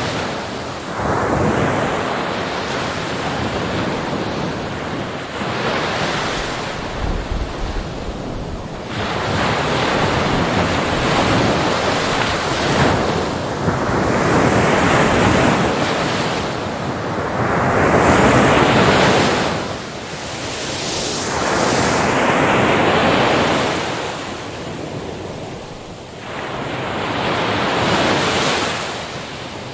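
Ocean waves breaking on a beach, the surf swelling and falling back every few seconds, with some wind noise on the microphone.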